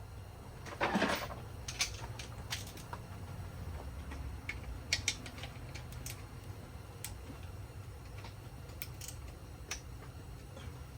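Scattered sharp metallic clicks and clinks of tools working on engine mount bolts, with a short burst of noise about a second in, over a steady low hum.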